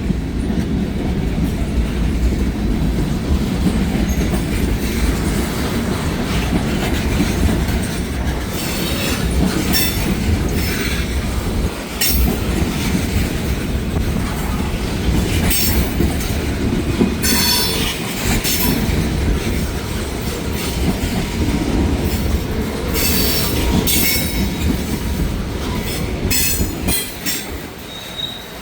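Freight train cars rolling past, a steady rumble of steel wheels on rail with a clickety-clack over the rail joints. Short high-pitched wheel squeals and clanks break through every few seconds.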